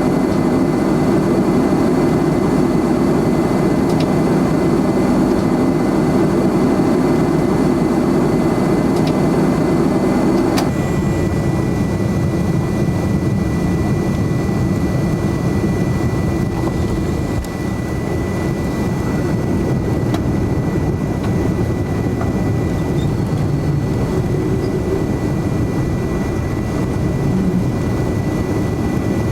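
Steady jet-engine and airflow noise heard from inside the cabin of a McDonnell Douglas MD-11, with a thin steady whine over it. About ten seconds in the noise changes abruptly to a deeper rumble.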